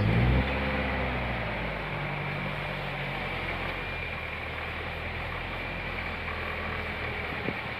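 Vehicle engine running steadily with road and wind noise, heard from inside the moving vehicle. The low engine hum is strongest in the first few seconds and then settles to an even drone.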